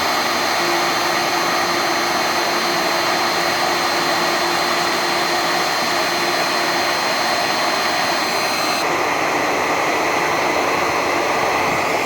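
Shaper Origin handheld CNC router running with its dust-extraction vacuum while cutting aluminum sheet: a loud, steady rushing noise with a high whine. About nine seconds in the whine stops and the noise softens.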